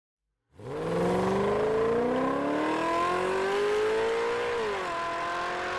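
Car engine accelerating, starting about half a second in with its note climbing steadily for about four seconds, then dropping back and holding steady near the end.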